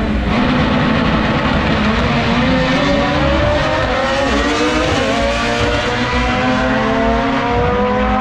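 Drag-race engines at full throttle down the strip, their pitch climbing steadily from about three seconds in as the cars accelerate.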